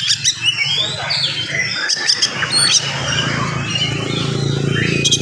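Oriental magpie-robin (kacer) singing fast and without a break: rapid, tightly packed whistled phrases mixed with sharp clicks. A low background hum grows louder about three seconds in.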